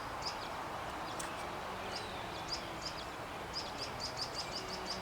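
Outdoor background hiss with a small bird giving quick series of short, high chirps, once near the start and again over the last second and a half.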